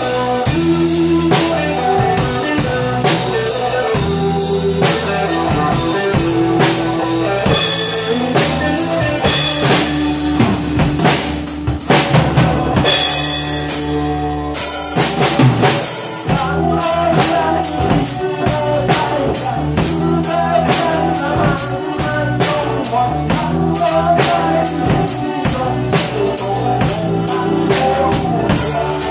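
Drum kit played to a backing track of pop music: a steady beat of bass drum, snare and hi-hat, with a busier, cymbal-heavy passage through the middle.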